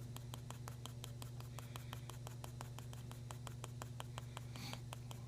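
Pencil on paper: quick, short, evenly spaced strokes, about six a second, drawing blades of grass, over a steady low hum.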